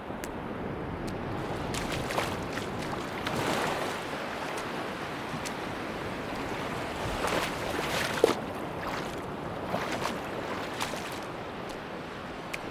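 Sea waves washing onto a beach, a steady rush of surf that swells and breaks several times.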